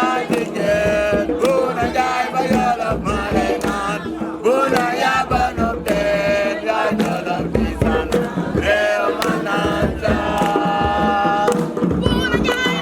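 Voices singing a chant-like song over steady drumming.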